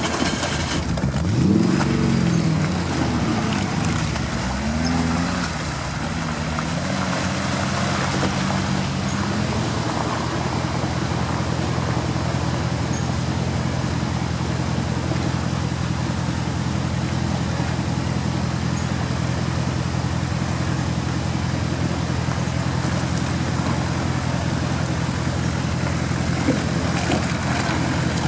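Off-road 4x4 engine revving up and down for the first several seconds, then running at a steady note.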